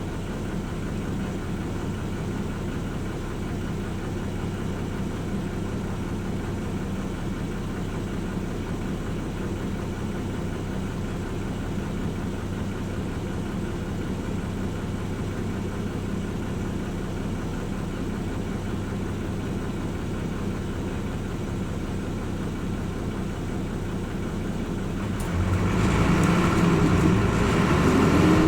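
Hino Rainbow RJ bus's diesel engine idling steadily, heard from inside the cabin. About 25 seconds in, the engine note rises and grows louder.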